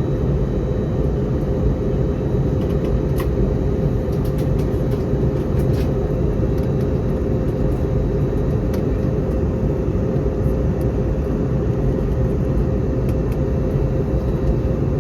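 Steady cabin noise inside an Airbus A321neo airliner in flight: engine and airflow rumble with a constant hum.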